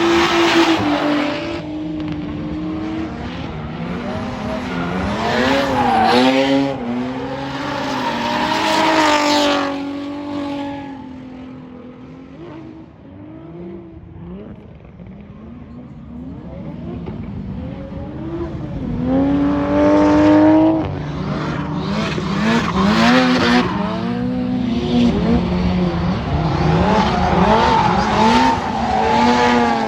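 Drift cars sliding through on track, their engines revving up and down with tires squealing. It dies down to a lull about a third of the way in, then another car comes through revving and squealing.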